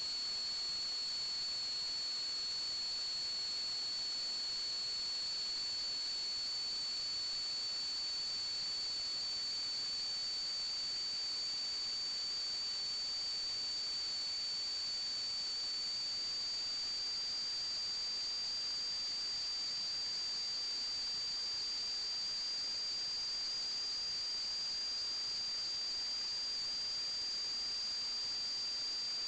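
A steady high-pitched whine over a constant hiss, unbroken, with the pitch creeping very slightly upward.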